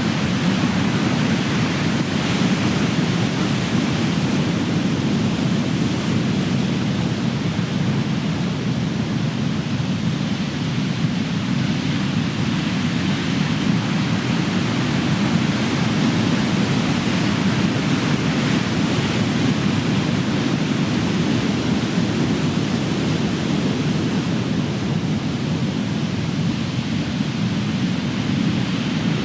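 Big ocean waves breaking as continuous surf: a deep, steady wash of water that swells and eases slowly, with no single crash standing out.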